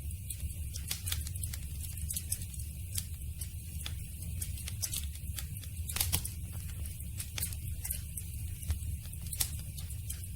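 Campfire burning, the wood crackling with frequent irregular sharp pops over a steady low rumble. The loudest pop comes about six seconds in.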